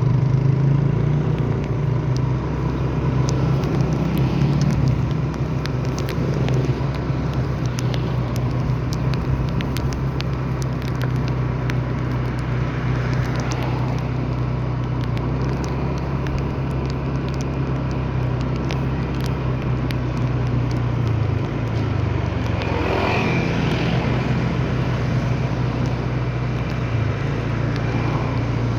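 Steady running of a road vehicle with engine and road noise, a constant low hum throughout. Many small scattered ticks sound over it.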